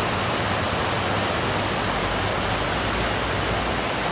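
A steady, even rushing noise at a constant level.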